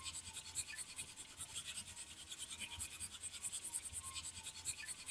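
Rapid hand scrubbing strokes with a stiff brush, about five or six a second, steady and scratchy, typical of cleaning rust off a metal part by hand.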